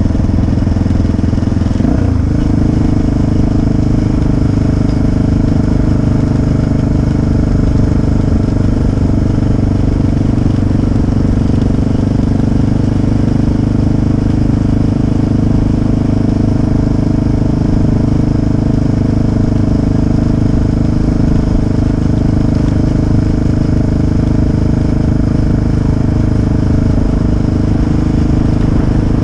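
Motorcycle engine running steadily under way, its note shifting briefly about two seconds in, then holding steady.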